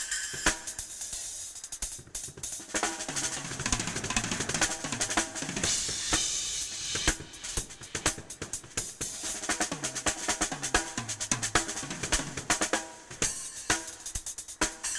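Drum kit played in a fast improvised solo: dense snare, bass drum, hi-hat and cymbal strokes, with runs around the toms about three seconds in and again around ten seconds.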